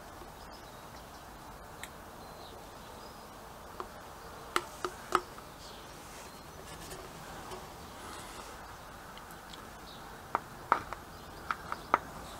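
Sharp metallic clicks and taps of tools and parts being handled while working on a motorcycle's transmission cover: three close together about four and a half seconds in and a quick run of five near the end, over a faint steady hiss.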